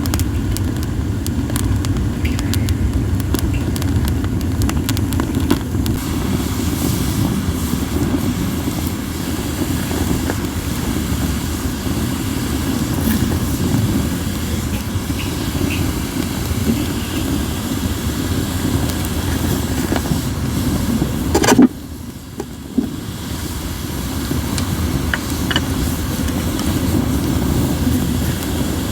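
Wood fire of acacia and mixed firewood crackling, with small ticks and pops, under a steady low rumble of wind on the microphone. A sharp pop comes about two-thirds of the way through; after it the wind rumble drops for a few seconds and then builds back up.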